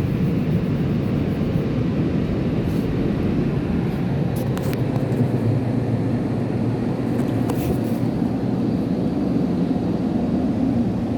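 Car wash air dryers blowing a steady, loud rush of air over the car, heard from inside the cabin.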